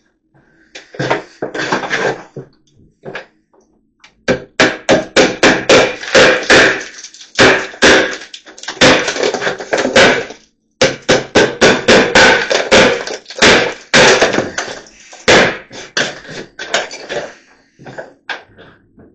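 Hammer driving nails into new lath strips on a wall: a few scattered blows at first, then fast runs of sharp strikes, several a second, broken by short pauses.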